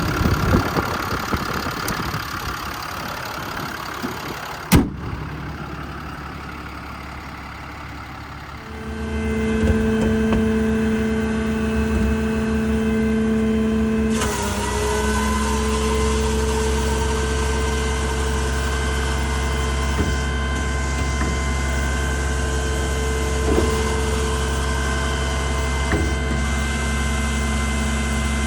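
Diesel truck engine running, with a sharp click about five seconds in. About nine seconds in it gets louder and a steady whining hum with several even tones sets in and holds.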